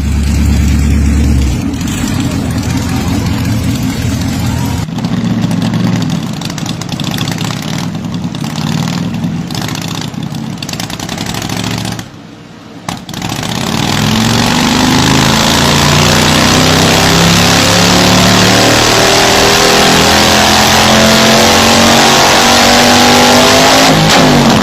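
Motorcycle engine running and revving, dropping away briefly about halfway through, then accelerating hard for the last ten seconds with its pitch climbing in repeated steps as it shifts up through the gears.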